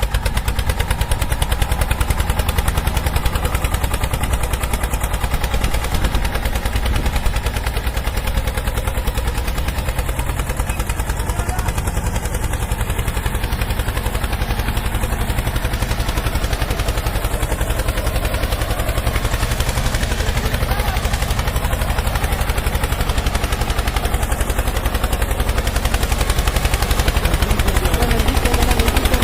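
Tractor engine running steadily with a rapid, even chugging of firing pulses, a little louder near the end.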